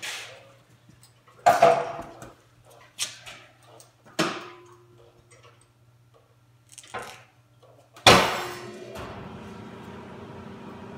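Several scattered metal clunks and knocks from a steel motorcycle dolly and the bike being handled on it, then a loud bang about eight seconds in, after which a steady mechanical hum runs on.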